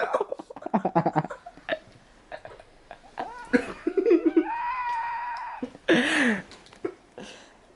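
Vocal sounds: laughter-like bursts, then a drawn-out pitched vocal sound a little past halfway and a short one just after.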